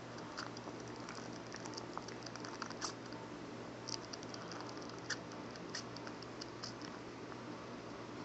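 Kitten suckling on a person's thumb: small wet sucking clicks at an irregular pace, over a steady low hum.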